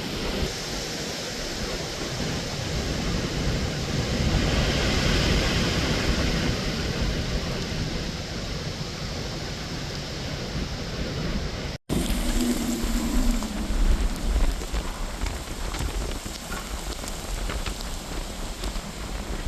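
Hurricane Beryl's wind and heavy rain: a dense rushing noise that swells and eases in gusts. It cuts out for an instant about twelve seconds in.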